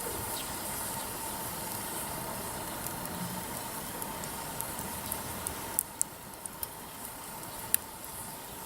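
Wood campfire burning with a steady hiss, its firewood giving off sharp crackles and pops that come more often in the second half, the loudest a few seconds before the end.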